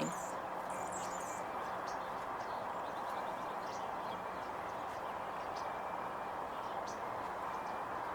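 Steady outdoor background hum with a few faint, brief high bird chirps scattered through it.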